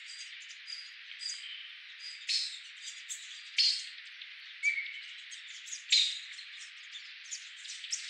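Small birds chirping, a quick scatter of short high calls with a few louder ones standing out about two, three and a half, and six seconds in, over a steady hiss.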